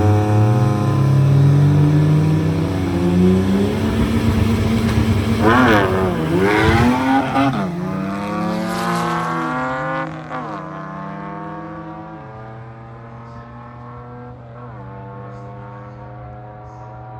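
Drag-racing truck's engine revving hard as it accelerates down the strip, its pitch climbing and dropping back several times as it shifts up through the gears, then fading as it pulls away, leaving a steadier, quieter engine note.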